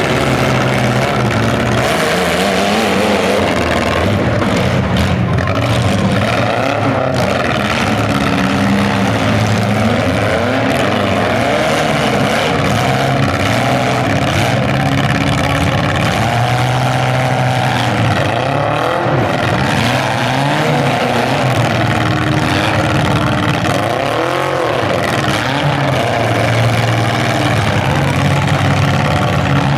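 Several compact demolition-derby cars' engines running together, revving up and down in overlapping swells.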